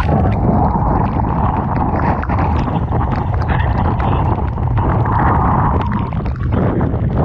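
Strong typhoon wind buffeting the microphone over rough, crashing sea, with a heavy low rumble and constant crackling of spray.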